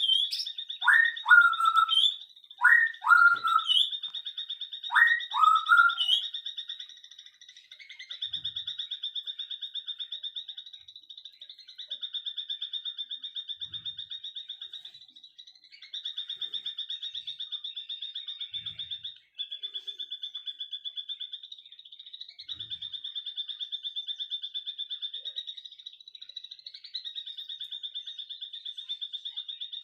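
Birds calling. A high, rapid buzzing trill runs in phrases a few seconds long with short breaks. During the first six seconds, loud whistled notes slide downward, mostly in pairs, over the trill.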